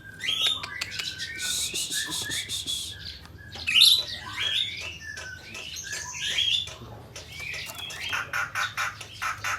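Murai air singing: a rapid, varied run of chirps, whistles and buzzy notes, with one loud sharp note about four seconds in.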